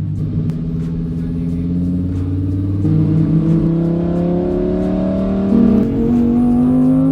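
Lamborghini Huracán's V10 engine under hard acceleration, its note rising steadily as the revs climb, with a sudden drop in pitch near the end as it shifts up a gear.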